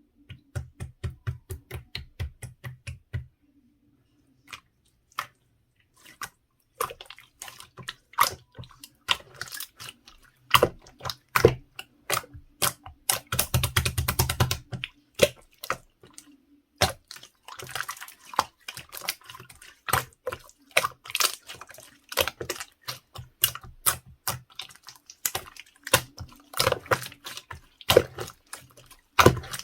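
Mixed slime being pressed and squished by hand, making sticky clicks and small air-bubble pops. It starts as a regular run of about four clicks a second, turns into a dense crackle about halfway, then continues as uneven clicks and pops.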